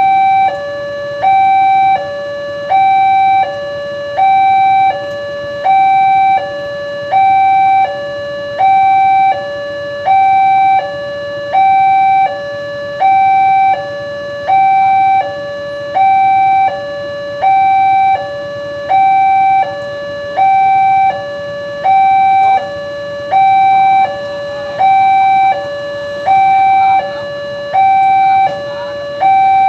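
Railway level-crossing warning alarm sounding a two-tone high-low signal, about one high-low cycle every 1.5 s, repeating evenly: the warning that a train is approaching and the crossing barrier is closed.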